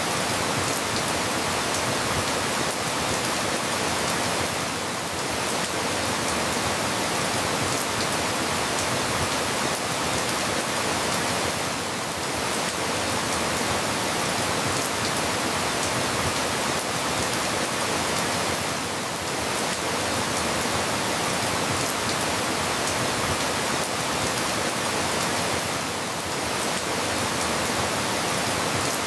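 Steady rain falling, an even hiss with no single drops standing out, dipping slightly in level about every seven seconds.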